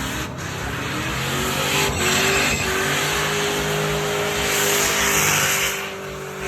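Car engine revving hard with tyres squealing, its pitch rising and then holding high before easing off near the end.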